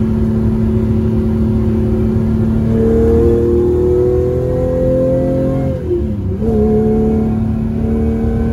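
Ferrari 412's V12 engine heard from inside the cabin, pulling under acceleration with the revs climbing from about three seconds in. Around two-thirds of the way through the revs dip briefly as in a gear change, then the engine settles into a steady pull.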